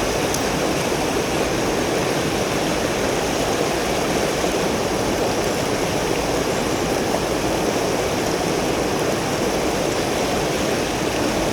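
Mountain stream water rushing over rocks, an even, steady noise.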